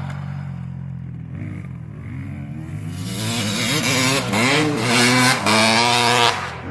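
Dirt bike engine revving hard: after a quieter stretch the revs climb in two or three surges, with a brief break like a gear change between them, then drop off sharply shortly before the end.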